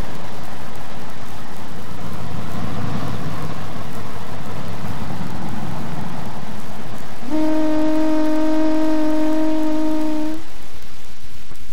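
A diesel-hauled train rumbling past at track level, a steady noise. About seven seconds in, a steady held note sounds for about three seconds, then stops.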